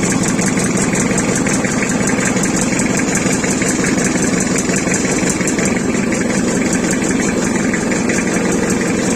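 A 3L engine idling steadily at an even speed.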